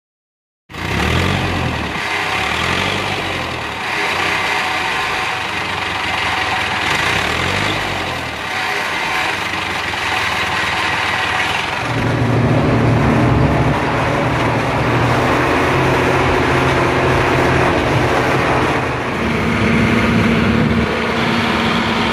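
Zetor tractor diesel engines running, their pitch rising and falling over the first half. About halfway through the running turns steadier and deeper.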